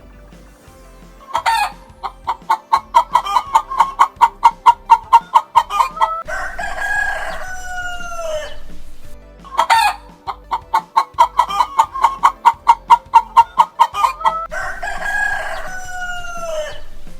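Chicken calling: a run of quick clucks that speed up over about four seconds, then one long call falling in pitch. The same sequence comes round a second time.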